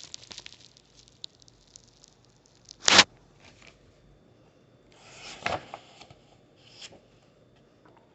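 Paper rustling and crackling as something is handled, such as a book's pages, with one loud sharp rustle about three seconds in and softer rustles near the end.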